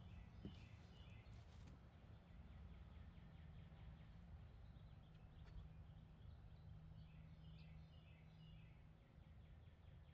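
Near silence, outdoor background in which a bird sings faintly: two runs of quick high chirps, one near the start and another from about six and a half seconds in.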